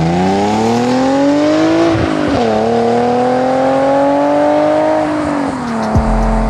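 Infiniti G37 coupe's 3.7-litre V6 accelerating hard: the revs climb, drop briefly at an upshift about two seconds in, climb again more slowly, then ease off. A low thump comes near the end.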